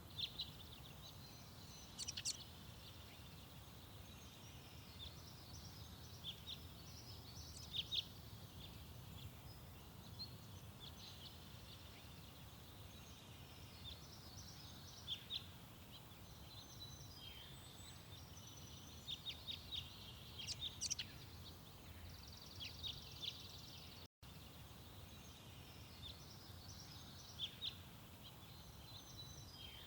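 Garden songbirds chirping and calling: many short, high chirps and brief trills from several birds, scattered irregularly, over a steady low background rumble.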